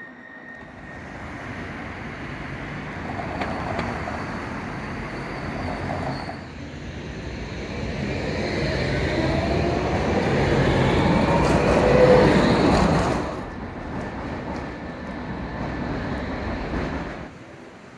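A tram passing close by: a rumbling run that builds over several seconds, with a whine that shifts in pitch, loudest about twelve seconds in, then falling away and stopping shortly before the end.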